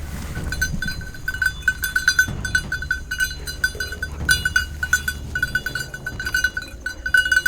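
Bell on a hunting dog's collar jingling in quick, irregular rings as the dog runs and quarters through the field.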